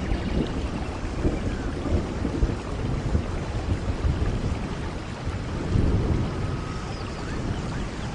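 Steady rain with low rolling thunder, the rumble swelling about a second in and again past the middle.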